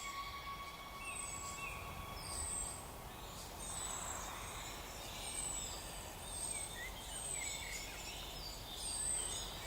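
Forest birdsong: small birds calling, with thin, very high notes that slide downward, repeated about once a second, among softer chirps over a quiet background hiss.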